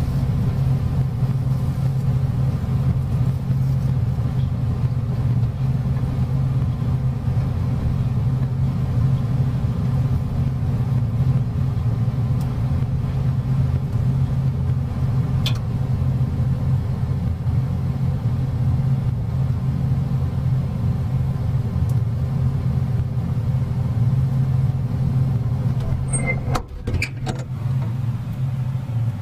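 Microwave oven running with a laser device inside: a steady, loud hum. There is a single sharp click about halfway through, and a few short clicks and breaks in the hum near the end.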